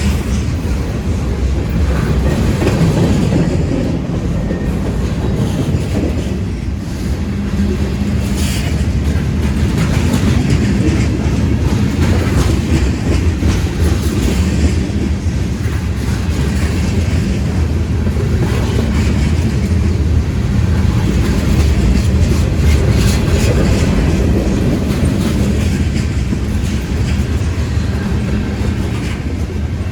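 A long CSX freight train's cars rolling steadily past, with a continuous rumble of steel wheels on rail and clickety-clack over the rail joints.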